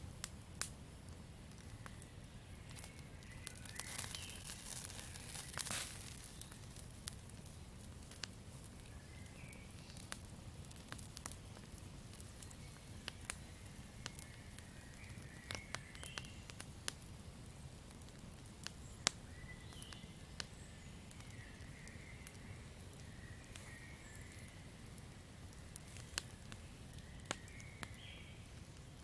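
Campfire burning, with sharp crackles and pops at irregular intervals over a low, steady rumble of the flames. About four seconds in, a louder hissing flare lasts a couple of seconds.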